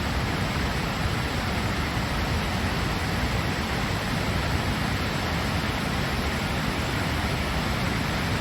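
Floodwater rushing fast down a road turned into a raging river: a steady, unbroken rushing noise that does not change.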